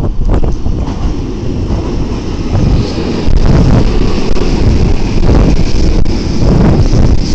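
Keikyu 1500 series electric train pulling into the station, its running noise rumbling along the platform and growing louder about three seconds in as the cars come alongside.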